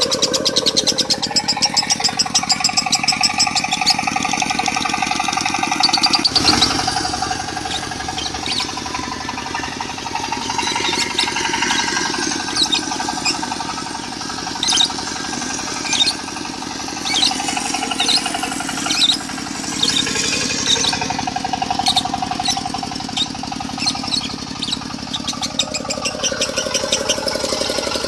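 Lovebird chattering in the rapid, buzzing 'konslet' style, with many short high chirps, over a steadily running diesel engine.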